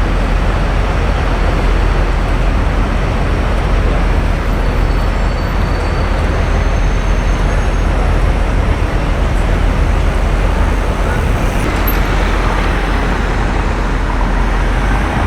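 Steady street traffic noise with a strong low rumble, no single vehicle standing out.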